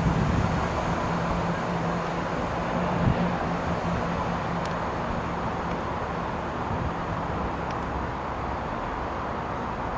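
Class 175 diesel multiple unit running at the platform: a steady low diesel hum over a rumble, the hum fading away about six seconds in.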